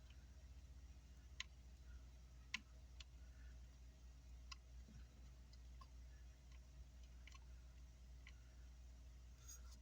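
Near silence over a low steady hum, broken by faint, scattered clicks of small tools against MOSFET pins and the circuit board during soldering work.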